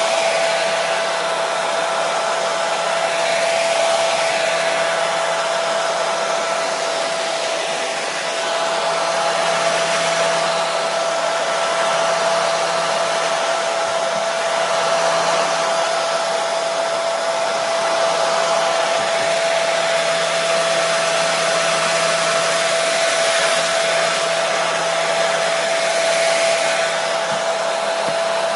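Hair dryer running steadily: a continuous airy rush with a steady hum from its motor and fan, swelling slightly every few seconds.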